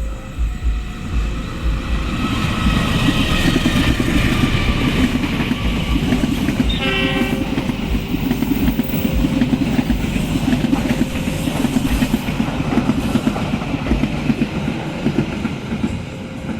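Train passing close by at speed, wheels rattling and rumbling over the rails, with a short horn blast about seven seconds in.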